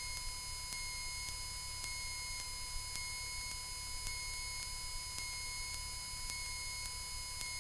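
Steady low hum of the aircraft intercom feed: a low engine rumble with constant electrical tones above it, the Cessna 172 idling while it holds short. There are faint scattered ticks.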